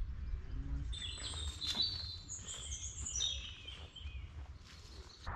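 A songbird singing a quick run of high chirps and warbles for two or three seconds, starting about a second in, over a low steady rumble.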